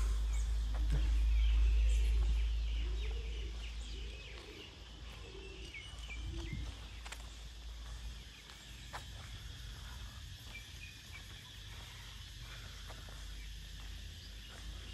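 Birds calling: a run of about six low rising-and-falling calls, roughly one a second, through the first six seconds or so, with higher chirps and twitters throughout. A low rumble underneath fades out about four seconds in.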